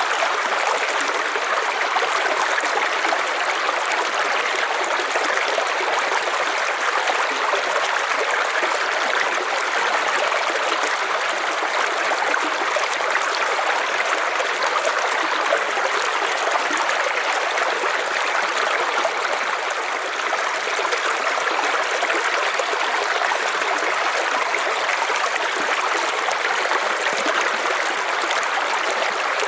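River water flowing over stones: a steady, even rushing with fine trickling, unchanging in level.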